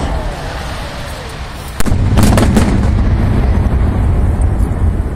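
Fireworks going off: a sudden cluster of sharp bangs about two seconds in, then a continuous low rumble of explosions.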